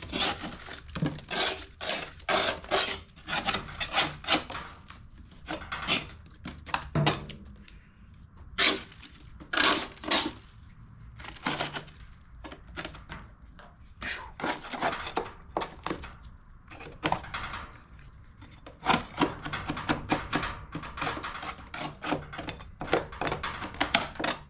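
Putty knife scraping caked, packed grass clippings off the underside of a metal mower deck in many short, irregular strokes, with fewer and quieter strokes in the middle stretch.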